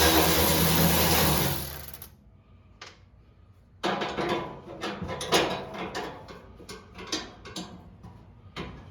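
A small power tool's motor runs steadily, with a low hum and a hiss, and stops about two seconds in. After a short pause come irregular clicks, knocks and rattles of parts being handled and fitted.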